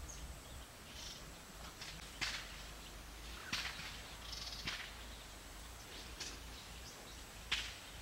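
Wild birds calling in forest: four short, sharp calls spaced a second or more apart, with fainter high chirps in between.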